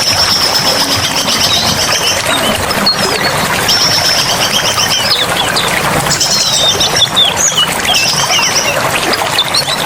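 Wild birds singing: a high trill repeated about every two to three seconds, with short whistled chirps between, over a steady rush of running water.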